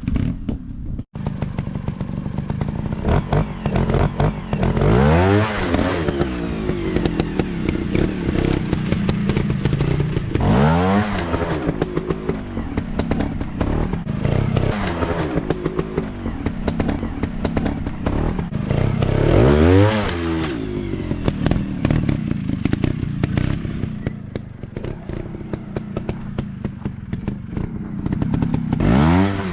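Dirt bike engine running with repeated throttle bursts, the pitch swinging up and falling back four times, over a rattling, clattering background.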